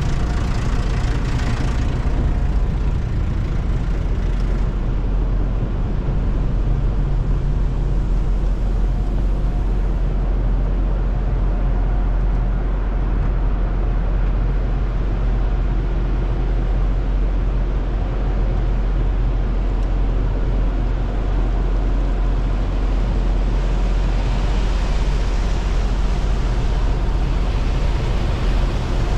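A car's steady low rumble, continuous and even, with a rise in hiss near the start and again near the end.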